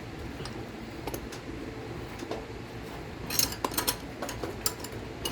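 Light metallic clicks and clinks of a steel bearing puller as its expanding insert is tightened inside a mini bike wheel bearing, with a cluster of sharper clinks a little past the middle.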